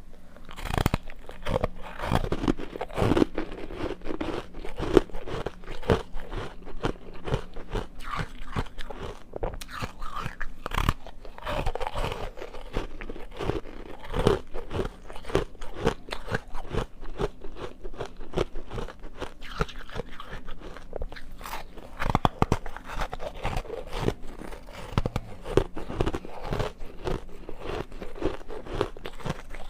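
A person biting and chewing ice: a dense, irregular run of crisp crunches and cracks, loud and close.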